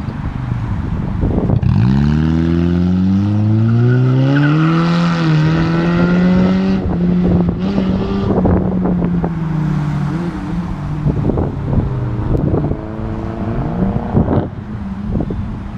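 Loud car engine and exhaust accelerating: the engine note climbs in pitch for about three seconds, holds high for several seconds, then eases off, with a second engine note near the end.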